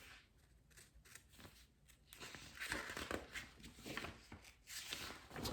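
Faint, irregular paper rustling from a picture book's pages being handled and turned, starting about two seconds in.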